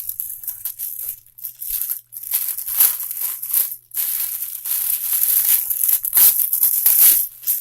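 Knife cutting open the taped wrapping on a bundle of magazines: a run of scratchy strokes with short pauses about a second and a half and four seconds in.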